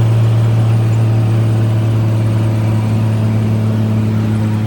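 Dodge W600 Power Wagon tow truck's 5.9 Cummins diesel (a New Holland combine engine) pulling under load, a steady low drone, easing off slightly near the end.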